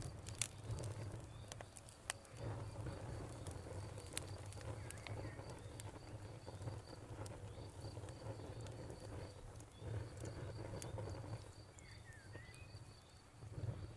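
Campfire crackling with scattered sharp pops over a low rumble, while a cricket chirps steadily in a fast, even pulse.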